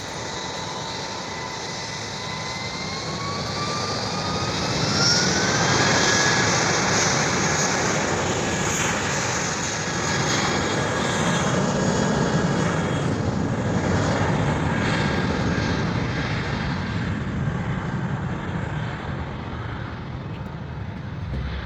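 Airbus A320 jet engines at takeoff power: a whine rising in pitch as the engines spool up, under a loud steady engine noise that is loudest about six seconds in and slowly fades as the aircraft moves away.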